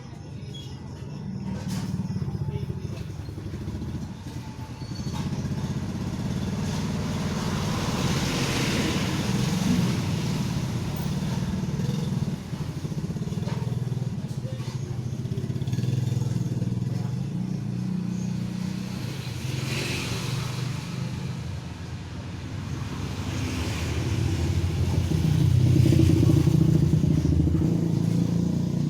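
A motor running steadily with a strong low hum, swelling louder several times.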